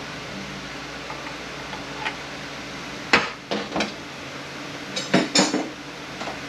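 Metal tools and parts of a Mercedes 722.118 automatic transmission clinking and clanking during teardown: one sharp knock about three seconds in, then several lighter metallic clinks, over a steady background hiss.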